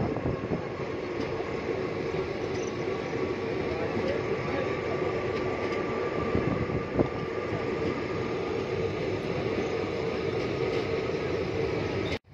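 Passenger train running, heard from aboard: a steady rumble of wheels on rails with a steady hum, and one sharp knock about seven seconds in. The sound cuts off abruptly near the end.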